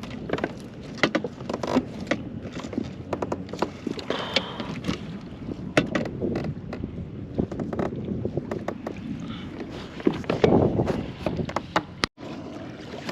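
Bumps, knocks and clicks on a plastic fishing kayak as a redfish and tackle are handled, over a steady rush of water and wind. A louder rush comes about ten and a half seconds in.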